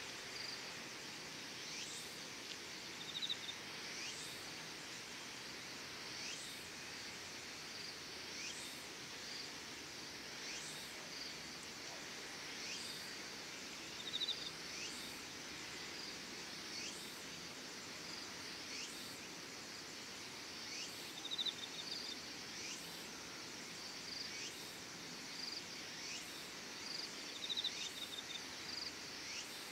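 Insects calling at dusk: a steady high chorus, with a call that sweeps upward in pitch about every second and a half, and a short, louder trill four times.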